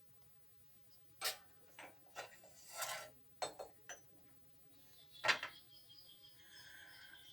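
Scattered clicks, light knocks and a short scrape of metal parts and tools being handled during washing-machine reassembly, with one louder knock about five seconds in. A faint high steady tone comes in near the end.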